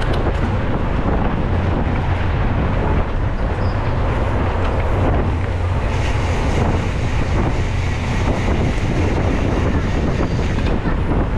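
Steady wind rumble on the microphone of a camera riding along on a mountain bike, with faint clicks and rattles through it.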